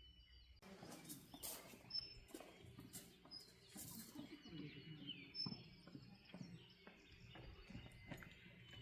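Faint wild birds chirping, with several short high chirps and one falling whistle about five seconds in, over soft rustling and light knocks.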